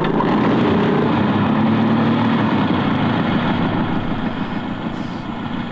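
Hover motorcycles' engines running as a cartoon sound effect: a steady engine drone over a dense rushing noise, easing off a little near the end.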